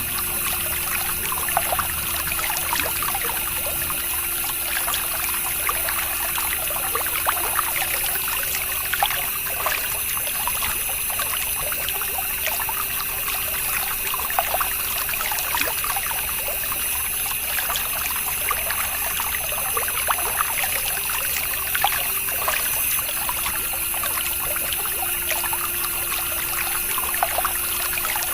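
Miniature water pump's small motor running with a steady hum while water trickles and splashes out of it. The hum rises slightly in pitch about eight seconds in and settles back lower near the end.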